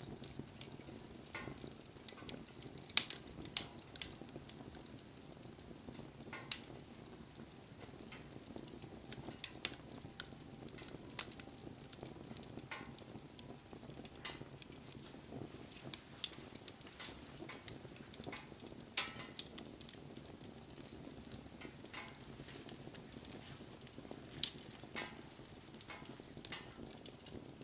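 Wood bonfire crackling: irregular sharp pops and snaps over a soft, steady flame noise. The loudest pops come about three seconds in and near the end.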